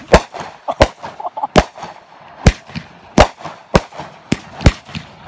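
Consumer aerial fireworks going off in quick succession: a string of about nine sharp bangs, roughly one every three-quarters of a second, with fainter pops and crackle between.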